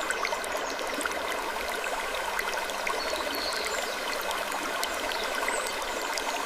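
Steady rushing, stream-like noise with scattered faint ticks and a few brief, high creaks.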